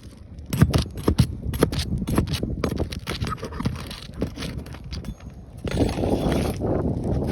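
Footsteps on an asphalt shingle roof: irregular knocks and scuffs. About six seconds in, wind rushing over the microphone takes over.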